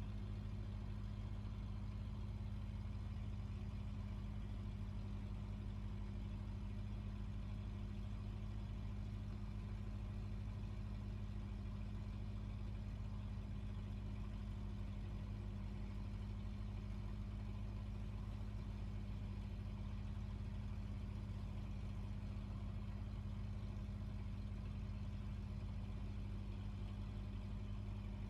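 Fishing boat's engine running steadily at constant speed, a low even drone that does not change.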